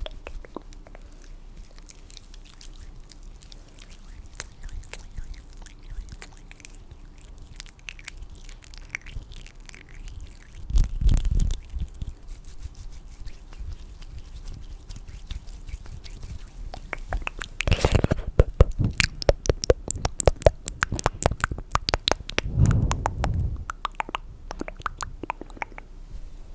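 Close-miked ASMR hand or mouth sounds: scattered soft clicks, a low thud about ten seconds in, then a dense run of rapid clicks from about seventeen seconds, with another low thud a few seconds later.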